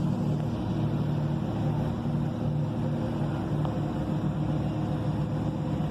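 Motorboat engine running at a steady speed, a continuous low drone.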